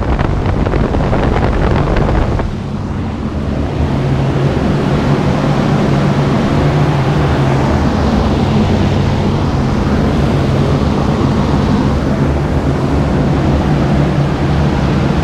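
A large outdoor air-conditioning machine running loudly, taken for some kind of chiller. Its big fans make a steady rush over a constant low hum.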